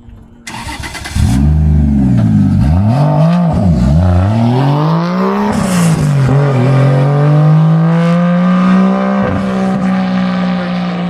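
Turbocharged Toyota 1JZ straight-six in a Nissan S13 coupe, revved several times in quick blips that rise and fall in pitch, then held at a steady raised idle that creeps slowly higher.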